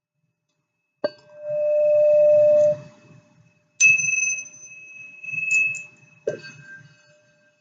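Singing bowls struck one after another, at three different pitches: about a second in, near four seconds, and just past six seconds. The first, a lower tone, swells into a loud, steady hum and then cuts off suddenly. The second rings a high, clear tone that swells once more before fading.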